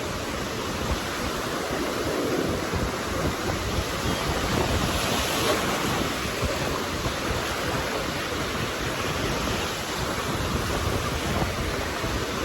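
Ocean surf washing onto the beach, with wind buffeting the phone's microphone; the surf swells a little about halfway through.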